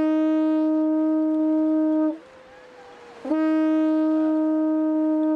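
A horn blown in two long, steady blasts on one pitch, each about two seconds, with a short pause between them: the horn call signalling the launch of the boat.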